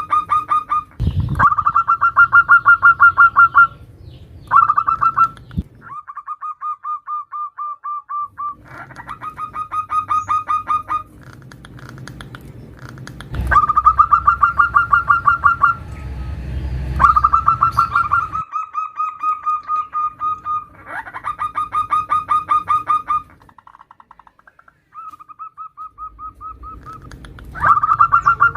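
Female zebra dove (perkutut) calling for a male: repeated trains of rapid, evenly pulsed cooing notes, each train lasting one to four seconds, with short pauses between.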